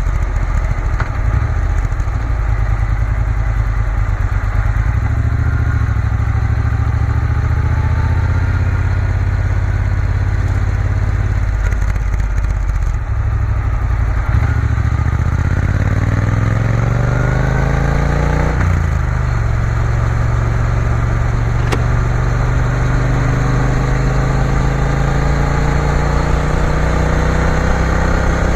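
Triumph Bonneville T120's parallel-twin engine under way on the road. It runs steadily at first, then accelerates from about halfway. Its pitch drops abruptly at an upshift and then climbs again.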